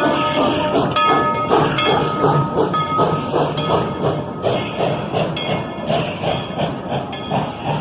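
Steam locomotive No. 190, a 1943 Baldwin S118-class narrow-gauge 2-8-0, working with its exhaust chuffing in an even beat of about three a second, over hissing steam.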